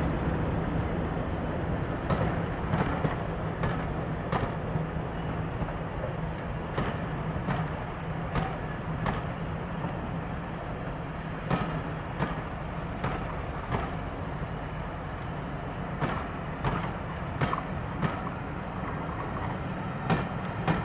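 Diesel-hauled passenger train passing: the locomotive's engine drone fades away after about ten seconds while the wheels of the coaches keep clicking irregularly over rail joints.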